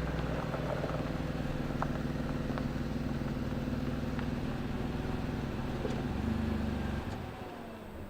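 Car engine and road noise inside a moving car, a steady low hum that cuts off suddenly about seven seconds in, as when the engine is switched off.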